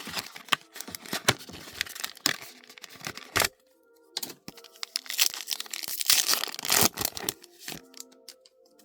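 Foil booster-pack wrapper being torn open and crinkled, in two stretches of tearing and rustling with a short break about three and a half seconds in. Faint background music underneath.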